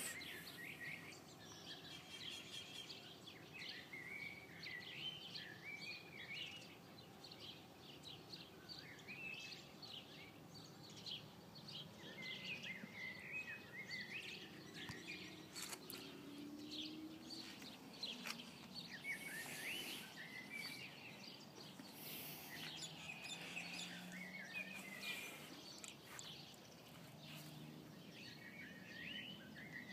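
Birds singing faintly in short warbled, chirping phrases that come every few seconds, over a low outdoor background hiss.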